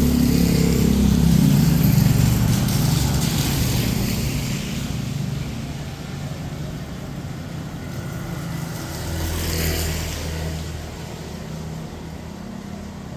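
Motor vehicles passing on a wet street: a loud engine close by at the start that fades away over several seconds, then another vehicle going past about nine to ten seconds in.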